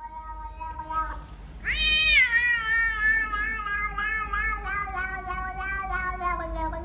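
A cat meowing: a lower, steadier call at first, then a long drawn-out meow that rises sharply about two seconds in and slowly falls in pitch over several seconds.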